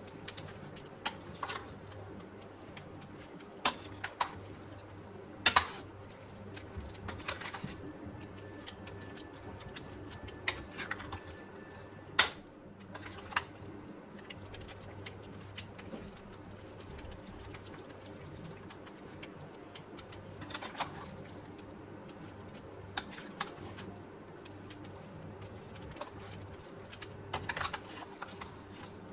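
Scattered sharp clicks and knocks, a few seconds apart, over a faint steady low hum.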